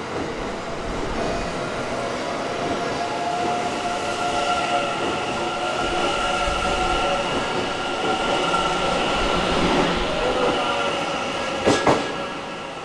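TRAIN SUITE Shiki-shima (E001 series) cars rolling past close by at low speed as the train departs: a steady rumble of wheels on rail with steady whining tones above it. Two sharp knocks come near the end, and then the sound falls away as the last car draws off.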